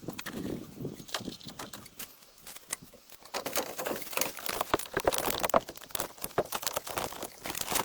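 Irregular knocks, clicks and scraping from objects being handled and worked on, sparse at first and busier from about three seconds in.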